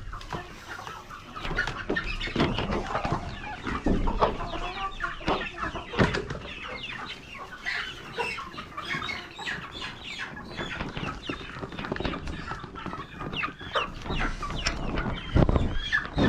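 A flock of chickens clucking continuously, many short overlapping calls, as they are given food. A couple of sharp knocks stand out, about six seconds in and near the end.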